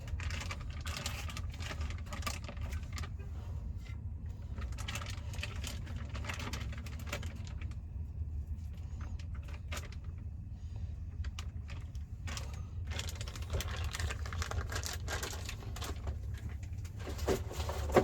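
Metal clanking and jangling in bursts as a propane tank and its fittings are handled during a tank swap, with one sharp knock near the end, over a steady low hum.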